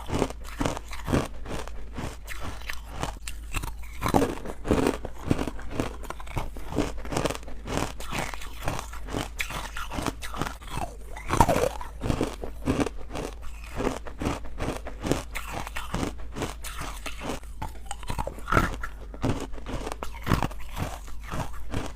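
Close-up chewing and crunching of hard, chalky ice bites made from carbonated water: a steady run of rapid crunches as the ice is bitten and ground between the teeth.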